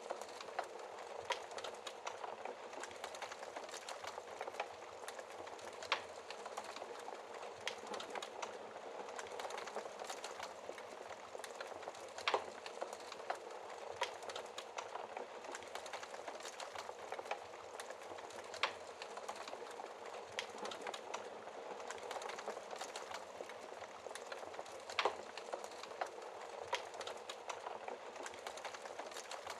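Wood fire in a fireplace crackling: a steady soft hiss with many small crackles and a sharper, louder pop every several seconds.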